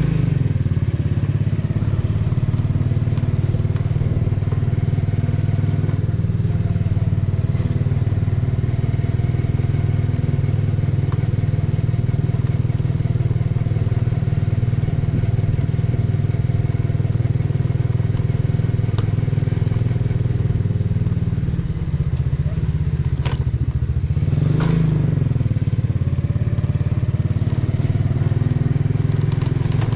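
Custom 125 cc motorcycle engine and exhaust running steadily while riding, with a brief dip in the note about two-thirds of the way through and two short clicks soon after.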